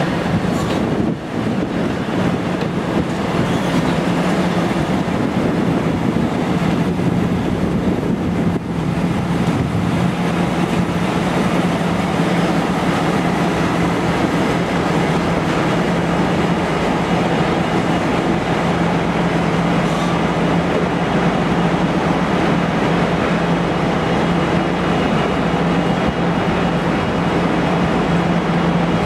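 Train at a railway station, with a steady droning tone over a constant rumble of running noise.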